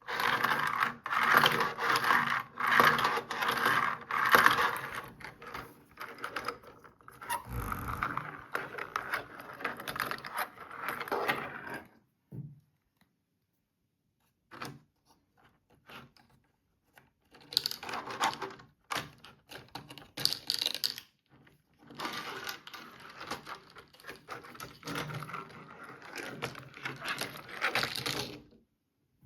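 Small hard plastic toy parts rattling, scraping and clicking while being handled. It comes in two long stretches with a quiet gap of a few seconds and a few single clicks in the middle.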